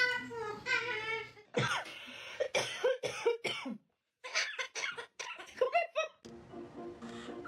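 Parrot making a run of short, harsh cough-like sounds, with a brief break about four seconds in before more of them.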